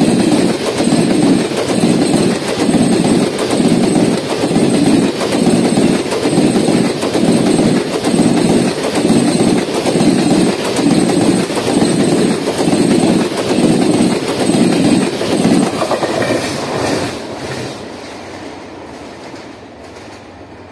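ICF passenger coaches passing at speed, their wheels clattering over the rail joints in a steady rhythm of about three beats every two seconds. About sixteen seconds in, the clatter fades away as the last coach goes by.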